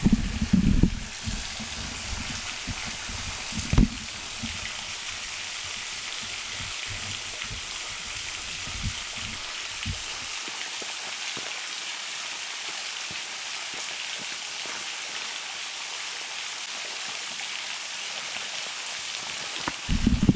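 Waterfall splashing steadily, an even high hiss of falling water. In the first half there are a few low knocks and bumps, the loudest about four seconds in.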